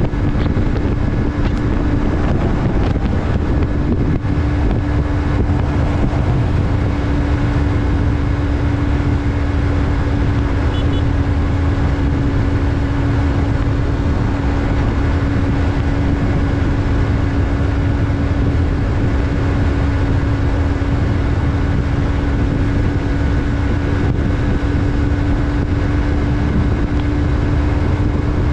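Yamaha MT-03's parallel-twin engine running at a steady speed while riding, its pitch holding level throughout. Wind rumble on the microphone sits under it.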